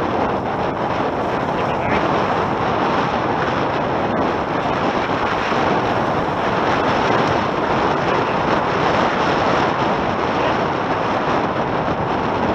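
Steady wind rushing over the microphone, mixed with water rushing past the hulls of a Tornado catamaran under sail.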